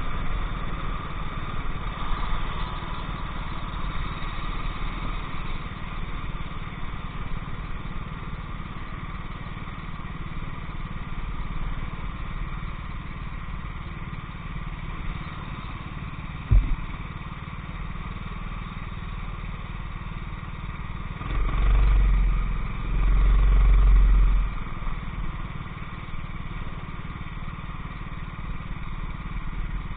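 Go-kart engine running steadily at speed. There is a sharp knock just past halfway and two heavy low rumbles a few seconds later.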